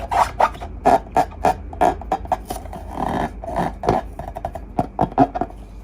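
Slime being squeezed and poked: a quick run of short squelching pops, two or three a second, that stops near the end.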